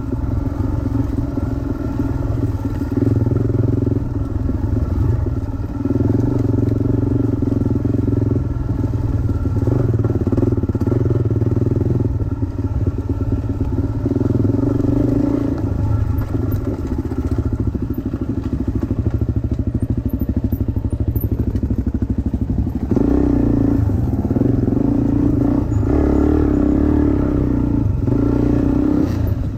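Dirt bike engine running under changing throttle, the engine note swelling and easing off every few seconds as the bike is ridden around a track.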